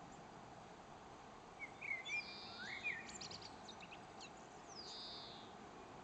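Garden birds calling over a low background hiss: a burst of short curving chirps starting about a second and a half in, a quick run of short high notes, then a falling note that levels off near the end.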